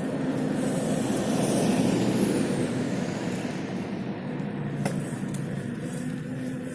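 Road traffic: a motor vehicle passing by, swelling to its loudest about two seconds in and then fading, over a steady low hum.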